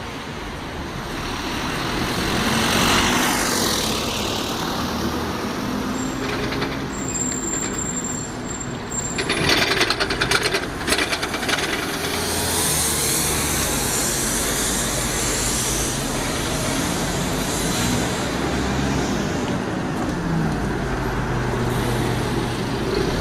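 Diesel bus engine running, with a sharp hiss and rattle of air brakes about ten seconds in. Near the end the engine note rises as it pulls away.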